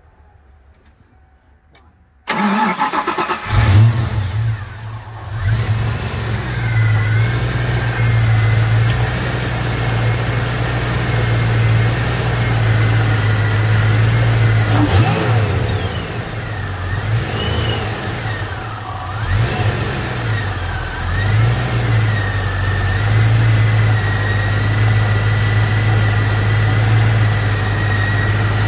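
1993 Ford Mustang Cobra's 5.0-litre V8 being started: the starter cranks about two seconds in, the engine catches a second later with a brief rev, then settles into a steady idle with a few small rises and falls in engine speed.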